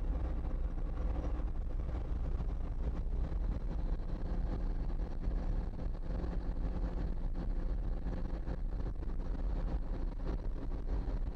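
Cummins 220 diesel engine of a 1954 Kenworth tractor running steadily under way, a constant low rumble.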